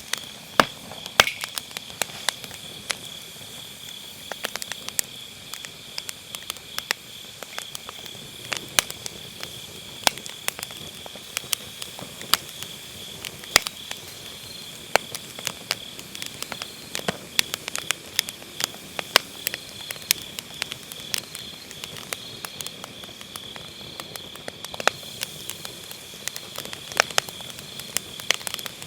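Firewood burning in a fire pit, crackling with irregular sharp pops and snaps, over the steady high chirring of autumn night insects.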